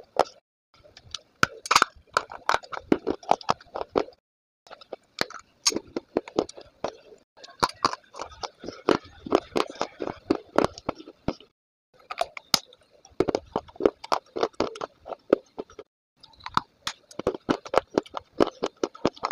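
Close-up chewing of something hard and brittle: dense crackly crunches in bursts of a few seconds, broken by short pauses between bites.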